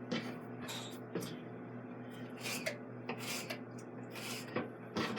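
Knife cutting a bell pepper on a cutting board: a series of short crisp cuts and knocks, over a steady low hum.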